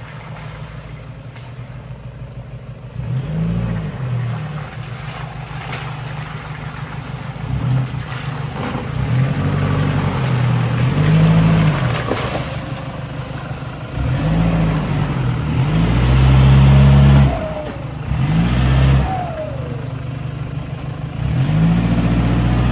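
Off-road 4x4 vehicle's engine running, revved up and eased off in repeated surges as it works over rough ground, the strongest push about three quarters of the way through.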